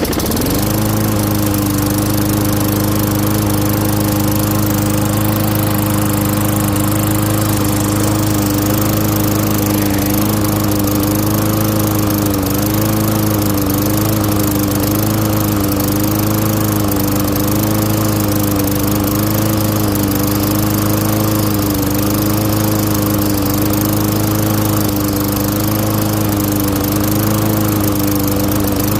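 Craftsman lawn mower's Tecumseh engine catching and starting at once, then running steadily with a slight waver in its pitch.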